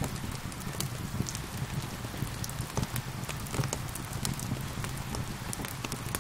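Wood fire crackling with irregular sharp pops, over a steady patter of rain.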